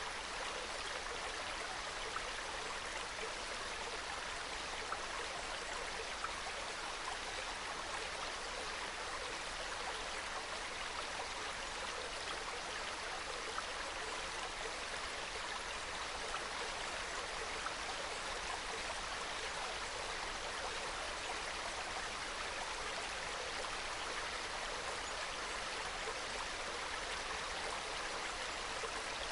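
Small mountain stream flowing and trickling over rocks, a steady babble with fine splashing flecks.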